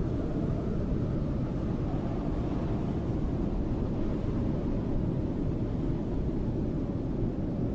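Snowstorm wind blowing steadily: a low, muffled, even noise without gusts or breaks.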